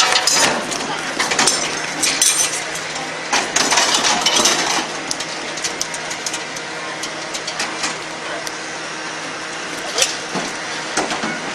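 Metal parts and tools clinking and knocking in quick irregular strikes during hand reassembly of a military jeep, over a background murmur of crowd voices.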